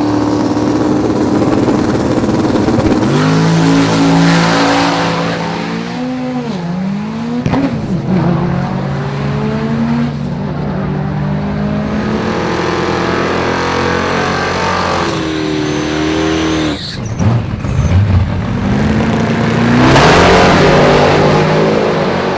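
Drag race car engines running and revving, their pitch climbing and dropping several times, with loud swells about four seconds in and near the end.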